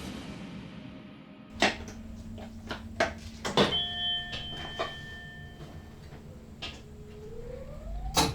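Inside the cab of an NS SLT electric train: several sharp clicks over a steady low hum, with steady electronic tones for about two seconds in the middle. Near the end a whine rises in pitch.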